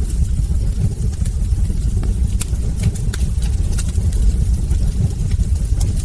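Wood fire burning in a hearth: a steady low rumble with scattered sharp crackles and pops from the burning logs, several a second.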